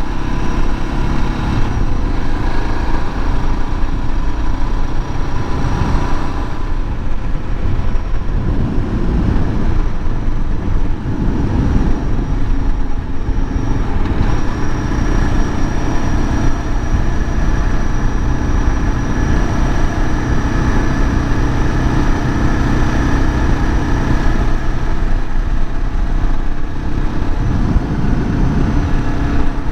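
Suzuki DR650's single-cylinder four-stroke engine running steadily under way on the motorcycle, its note rising and falling a little between about eight and twelve seconds in.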